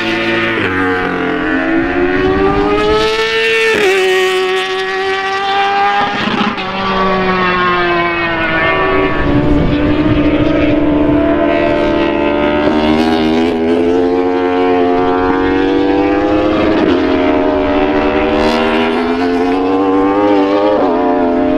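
Several racing motorcycle engines running hard at high revs, loud throughout, their pitch rising and falling with a few sudden drops as the bikes change gear.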